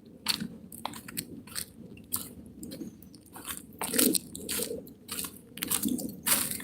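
Footsteps crunching on a dirt trail, a few irregular steps a second.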